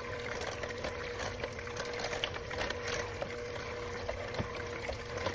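Electric mixer motor running steadily with a constant whine, shredding cooked chicken in creamy sauce, with many small clicks and taps of the food against the bowl.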